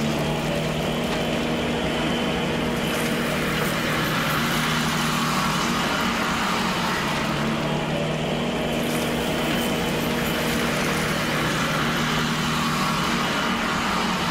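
Steady engine-like motor drone with a low hum and a hiss over it, running at an even level while the model tractor pulls its roller across the sand.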